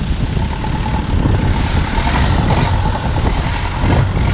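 Longtail boat's engine running steadily and loudly, with a faint steady whine above it.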